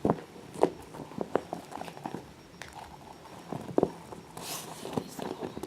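Irregular taps and knocks on a faux-leather cat carrier, with a brief scratchy rustle about four and a half seconds in.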